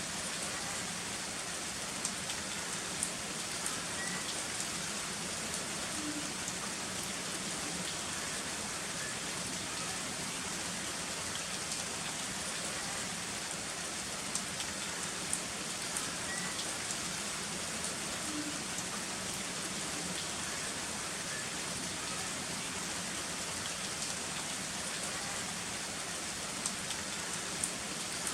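Heavy rain falling steadily, with scattered sharper ticks of single drops. No thunder is heard.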